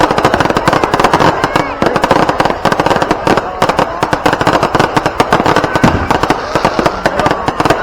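A dense, continuous barrage of firecrackers and fireworks going off, many sharp bangs and crackles a second, with crowd voices underneath.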